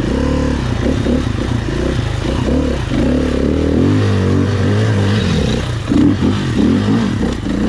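Dirt bike engine revving up and down unevenly, its pitch repeatedly rising and falling, as the bike is worked through a deep stream crossing.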